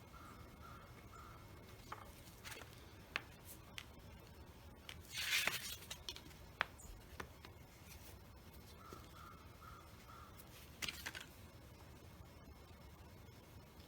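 Quiet garage with a short series of repeated animal calls, about three a second, near the start and again past the middle. There are a few light clicks and a brief scraping rustle of small tools and parts being handled, the scrape the loudest sound.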